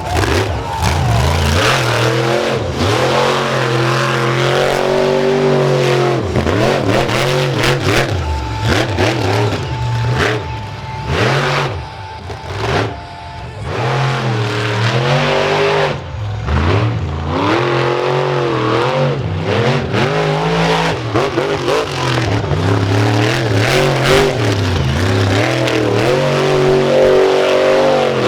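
Monster truck engine revving hard, its pitch swinging up and down again and again, with sharp knocks and bangs. The engine backs off briefly about twelve seconds in.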